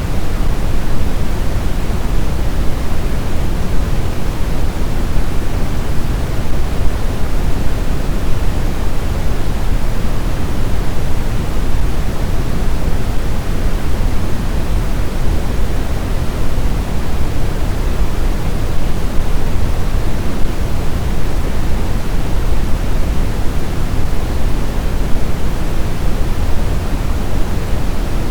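Snowstorm wind as a steady, dense rush, heaviest in the low end and thinning toward the top, holding an even level without gusts.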